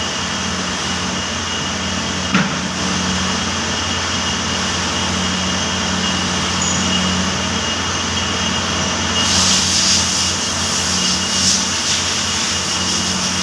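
CNC gear shaper running: a steady mechanical hum with a faint high whine. There is a single knock about two seconds in, and a hiss joins about nine seconds in.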